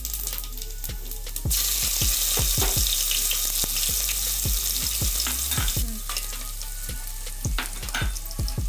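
Hot fat sizzling in a pan as chopped ginger pieces are added to frying cumin seeds and peppercorns. It swells about one and a half seconds in and fades back to a softer crackle at about six seconds. Background music with a steady beat plays throughout.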